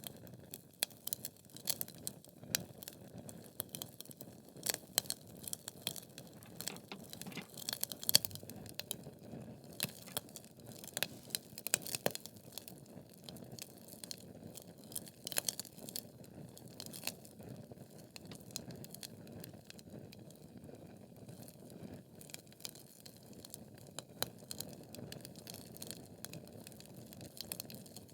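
Wood fire burning in a fireplace: logs crackling and popping in sharp, irregular snaps over a steady low rush of flame, with the loudest pop about eight seconds in.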